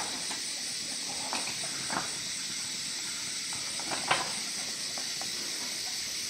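A steady high-pitched hiss, with a few faint clicks and rustles, the loudest about four seconds in.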